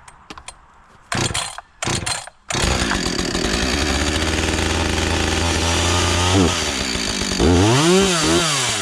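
Husqvarna 562 XP two-stroke chainsaw being pull-started. After a couple of short pulls it catches about two and a half seconds in and runs at a steady fast idle. Near the end the throttle is revved up and back down twice.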